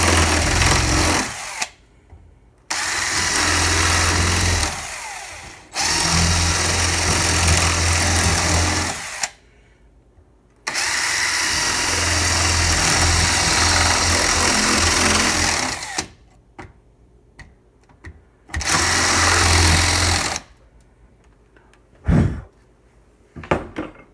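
Handheld power tool with a cutting bit running in five bursts of a few seconds each as it bores out plywood beneath the countertop's laminate-covered top layer, one run winding down about five seconds in. Small clicks and a sharp knock follow near the end.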